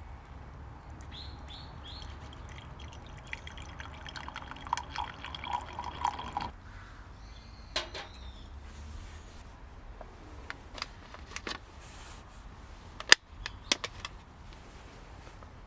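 Liquid being poured for about three seconds, stopping suddenly, followed by a few sharp clinks of cookware.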